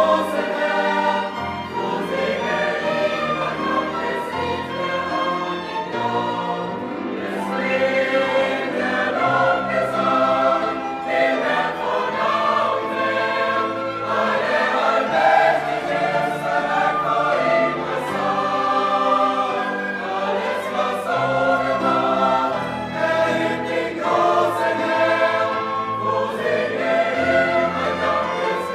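Choral music: a choir singing sustained lines over a low bass accompaniment.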